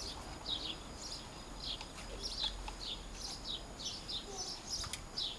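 Small birds chirping repeatedly: short, high, falling chirps, about two or three a second.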